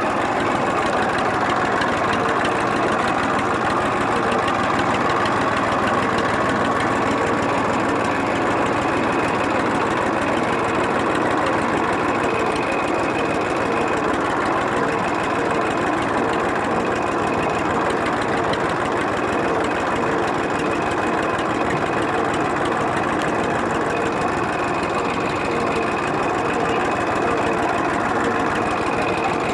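Massey Ferguson tractor's diesel engine running steadily at an even, unchanging pace.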